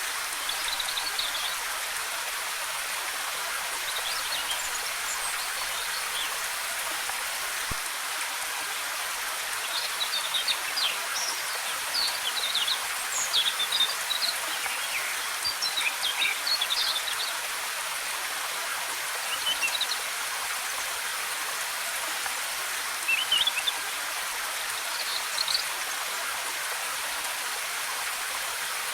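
Steady rush of a waterfall, with small birds chirping now and then in short high bursts, busiest around the middle.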